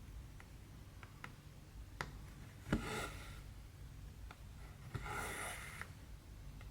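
Hand cross-stitching on 14-count canvas: a needle gives several small clicks as it pierces the fabric, and thread drawn through makes two brushing rasps, about three seconds in and again about five seconds in, over a low steady hum.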